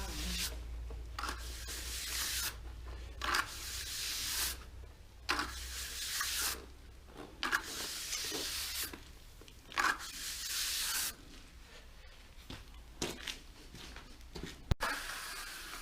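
Trowel scraping wet cement render across a wall in repeated strokes about a second long, with short pauses between.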